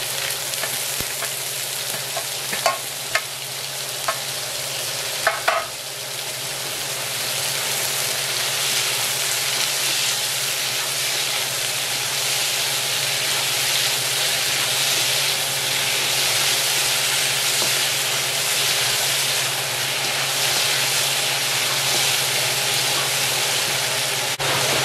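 Gold oyster mushrooms and onion sizzling in hot olive oil in a wok, as a steady hiss that grows louder about six seconds in. A few sharp taps against the wok in the first several seconds.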